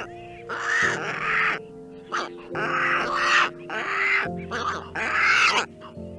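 An animal or bird giving a run of harsh, raspy calls, about five in a row, each up to a second long, over steady background music.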